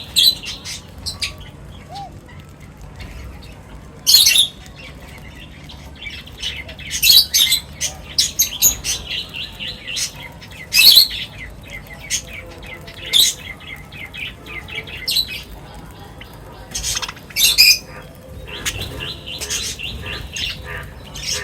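Several birds chirping and calling: loud, sharp, high calls come every second or two, some in quick runs of rapid chirps, over a faint low steady background.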